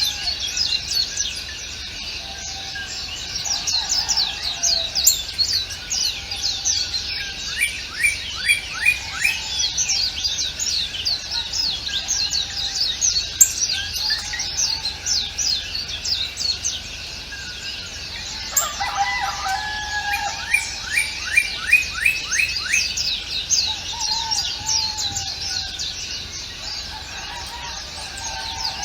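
Songbirds chirping and singing together in a dense chorus of quick, high chirps, with runs of rapid trills. Softer, lower calls repeat now and then underneath.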